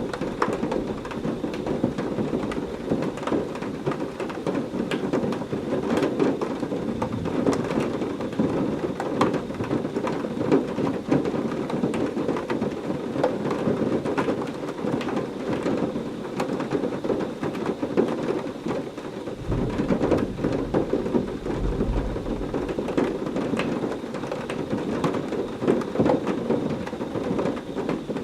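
Heavy rain falling steadily, a dense hiss full of individual drop hits. A low roll of thunder rumbles about twenty seconds in.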